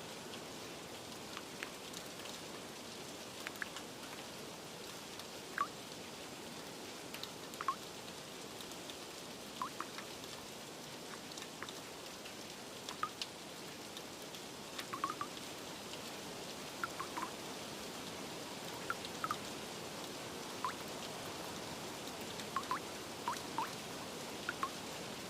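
Steady light rain as a soft, even hiss, with scattered single water drips plinking at irregular intervals a second or more apart, coming a little more often near the end.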